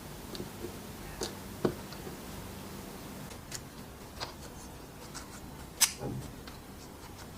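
Scattered small, sharp clicks and taps of hard parts being handled, about six in all, the loudest a little under six seconds in.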